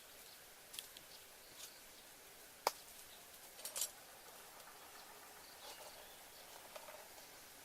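Faint outdoor background with a few scattered small clicks and taps, the sharpest a little under three seconds in and a pair just under four seconds in.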